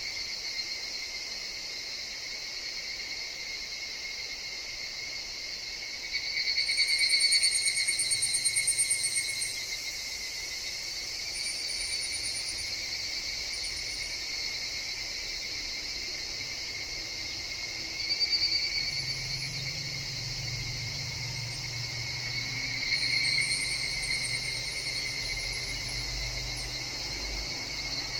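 Higurashi (evening cicadas) calling in a forest: a steady shrill drone, with louder choruses that swell and fade three times. Short high insect chirps come and go, and a low hum runs through the second half.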